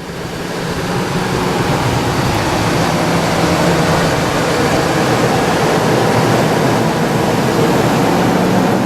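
Wind rushing over the microphone in a steady, loud rush that swells during the first second, with a steady low hum underneath.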